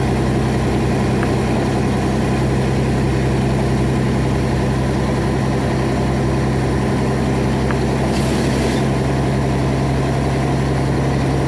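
Truck engine running with a steady low drone, with a short faint hiss about eight seconds in.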